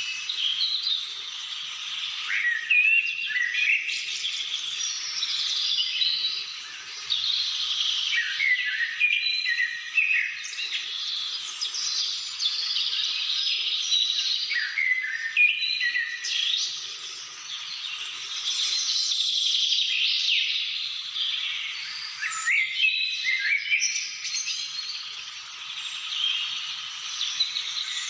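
Many birds singing and calling over one another in a continuous chorus of chirps and whistled phrases.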